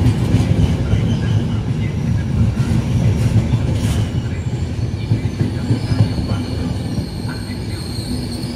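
A train running through a railway station, a loud steady low rumble of wheels on the rails, with faint high wheel squeal coming in near the end.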